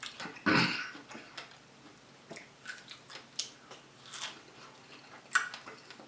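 Close-miked chewing of juicy fresh fruit, with a louder bite about half a second in, then wet mouth smacks and clicks about once a second.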